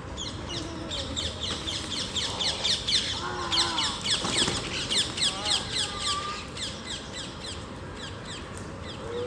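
Small birds chirping rapidly: a dense run of short, high, falling notes, several a second, that thins out near the end. Faint voices are heard briefly in the middle.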